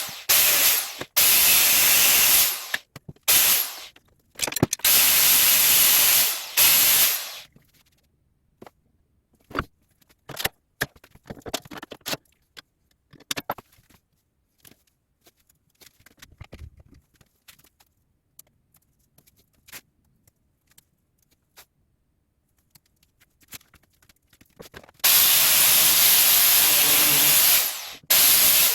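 Angle grinder on metal, running in several hard bursts of one to three seconds with short breaks. Then comes a long quiet stretch broken only by scattered clicks and knocks, and the grinding starts again near the end.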